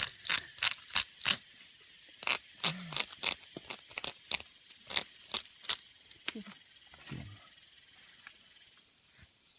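A run of sharp knocks, about three a second at first and then sparser, fading out after about six seconds, over a steady high insect drone. A couple of short low sounds come between the knocks.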